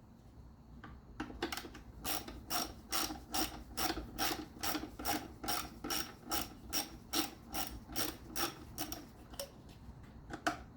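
Socket ratchet wrench clicking in a quick, even run, about three clicks a second, as it is worked back and forth to run out a bolt on an engine. The clicking starts about a second in and stops about nine seconds in, with one more click near the end.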